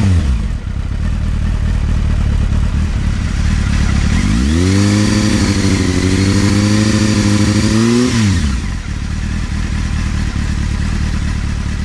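Honda CBF600 PC38 motorcycle's inline-four engine idling loudly through its exhaust, revved once about four seconds in, held up for about four seconds, then dropping back to idle.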